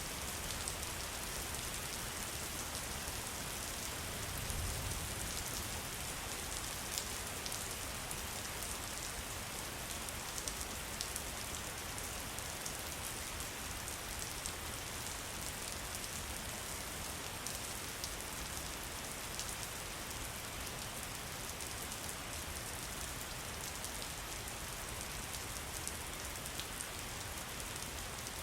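Steady rain falling: an even hiss with the sharp taps of individual drops.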